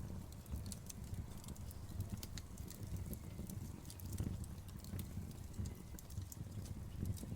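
Campfire burning, with irregular sharp crackles and pops over a low steady rumble.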